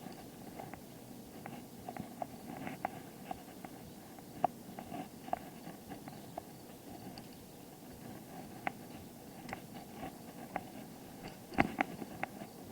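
Bicycle being ridden, with a steady low rumble and irregular light clicks and rattles from the bike, a few louder knocks near the end.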